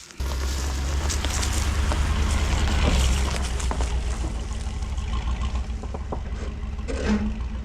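Pickup truck driving, a steady low engine and road rumble with broad noise over it, starting abruptly.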